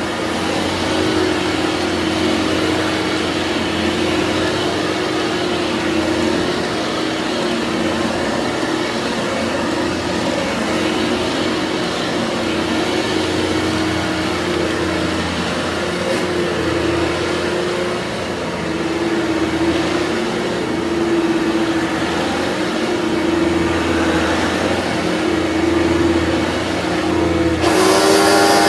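Vorwerk VK121 upright vacuum cleaner running with its ET340 powerhead brushing carpet: a steady motor hum with a constant whine. A short, louder burst of sound comes about a second before the end.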